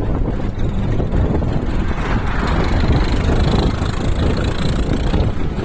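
Wind and road noise from a vehicle travelling along a highway: a steady low rumble with wind buffeting the microphone. A rushing hiss swells from about two seconds in and fades near the end.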